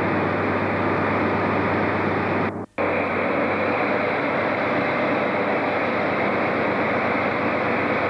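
Steady rumbling noise of trains in a railway station, heard through an old camcorder microphone, with a brief gap in the sound about two and a half seconds in.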